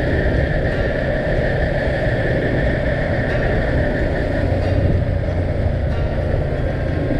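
A vehicle on the move, with its engine running steadily under road and wind noise at an even level.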